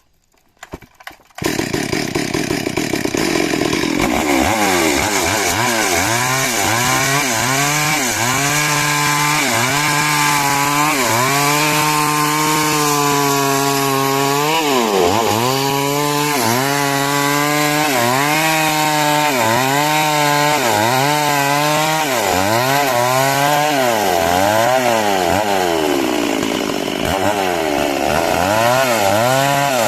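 Two-stroke chainsaw ripping timber into rafters. It comes in suddenly about a second and a half in and runs hard, the engine note sagging and recovering about once a second as the chain bites into the wood.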